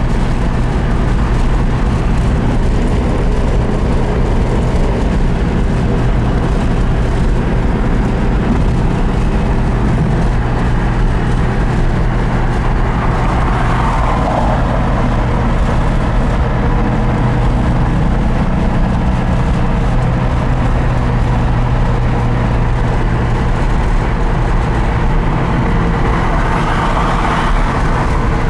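1965 Porsche 356C's air-cooled 1600 SC flat-four engine running steadily at freeway cruising speed, heard from inside the cabin mixed with road noise.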